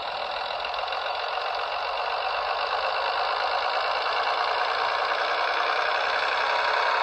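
Sound-fitted Bachmann Class 101 DMU model running, its diesel engine sound played through the model's small onboard speaker as a steady, thin rattle that gradually grows louder.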